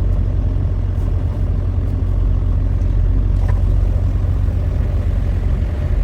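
Steady low rumble of a heavy truck's diesel engine idling.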